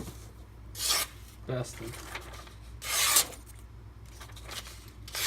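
Knife edges slicing through paper: three short swishing cuts, the longest and loudest about three seconds in.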